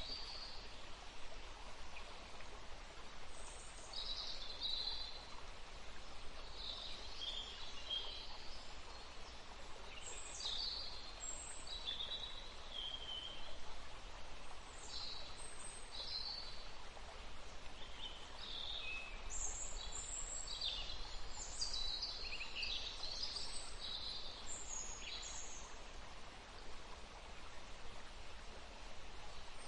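A woodland stream running steadily, with many songbirds calling and chirping over it, the calls busiest about two-thirds of the way through.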